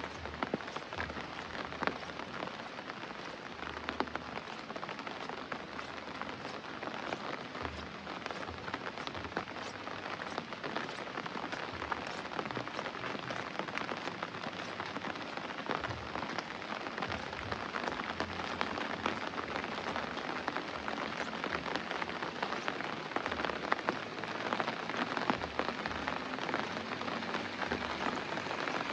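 Heavy rain falling steadily, a dense hiss full of countless small drop hits, with occasional dull low thuds from heavier drops. It grows slightly louder near the end.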